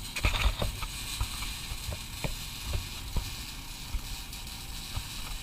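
Irregular knocks and clicks from work on a car's exhaust system as the last tip goes on, over a steady hiss.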